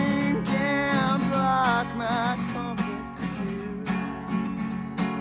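Acoustic guitar strumming under a long held sung note that wavers near the middle, then the guitar strumming on alone, a little quieter, in the last few seconds.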